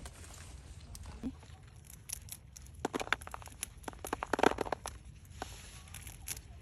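Rustling and crackling handling noise, with bursts of quick sharp clicks about three and four and a half seconds in.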